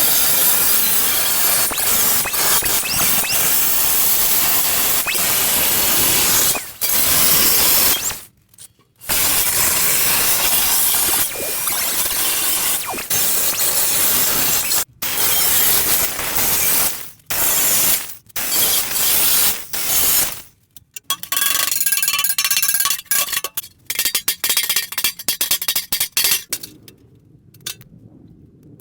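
Power cutting tool slicing through rusted sheet steel of a car's rear floor pan: long loud cuts broken by short pauses, then shorter stop-start cuts from about two-thirds of the way in, stopping near the end.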